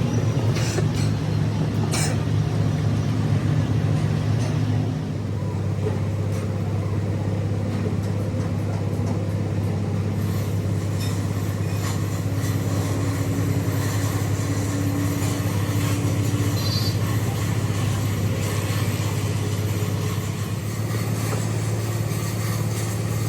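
Workshop machinery running with a steady low hum that shifts slightly in pitch about five seconds in, with a few light metallic clicks.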